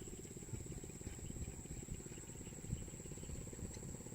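A steady high-pitched insect drone over a low fluttering rumble.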